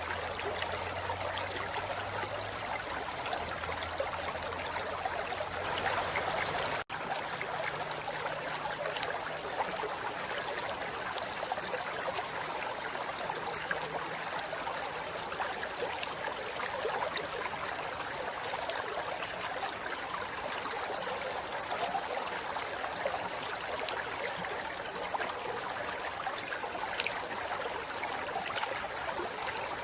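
Forest river flowing over rocks: a steady rush of running water. About seven seconds in the sound cuts out for an instant.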